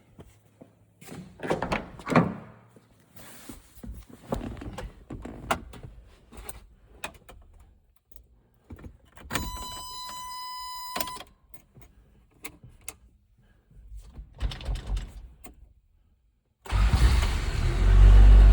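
Handling noises in the cab of a 1988 Toyota Hilux pickup, with knocks and key sounds, and a steady electronic warning tone for about two seconds midway. Near the end the engine starts from cold and keeps running loudly.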